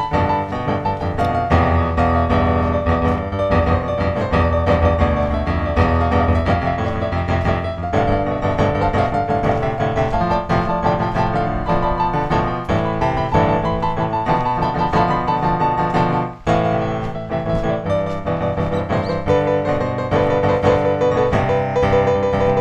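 Background piano music, many notes over a steady bass line, with a brief break about sixteen seconds in.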